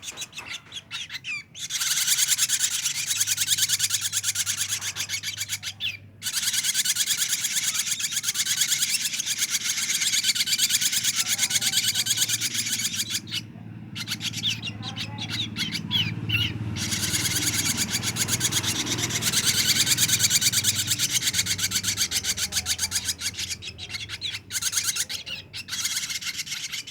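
Ashy drongo chick calling in long runs of rapid high-pitched notes, broken by a few short pauses.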